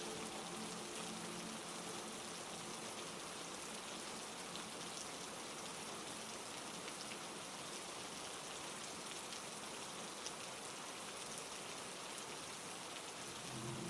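Steady heavy rain, an even hiss with faint scattered drop ticks. A soft sustained music tone underneath fades out in the first few seconds.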